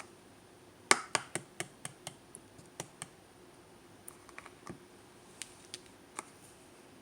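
Slime being squeezed and worked by hand, making sharp little clicks and pops: a quick run of about ten starting about a second in, then a few scattered ones.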